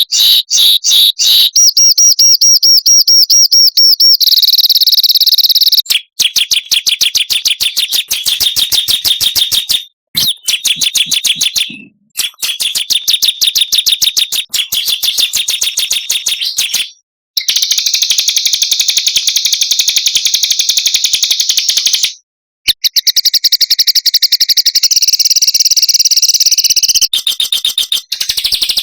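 Small songbirds singing rapid, high-pitched trills and fast strings of repeated chirps: birdsong training recording ('masteran'). Several recorded song segments are spliced together, with brief silent gaps between them.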